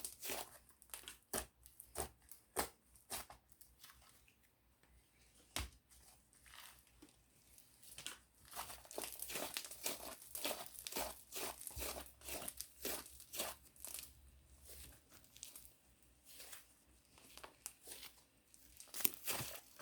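Mint-chocolate slime being squished and worked by hand, giving an irregular run of sharp crackling clicks and pops. The crackling thins out for a few seconds about a quarter of the way in, then comes back denser.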